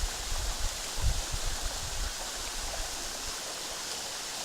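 Waterfall running at low flow in the dry season: a steady rush of falling water. Low rumbling bumps sit under it and stop a little after three seconds.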